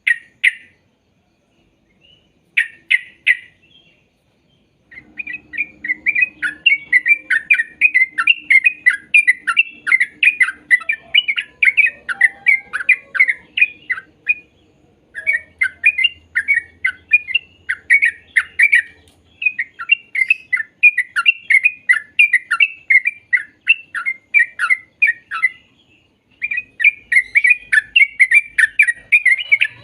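Yellow-vented bulbul (trucuk) singing: a couple of short note clusters, then long runs of rapid chattering notes, several a second, broken by brief pauses.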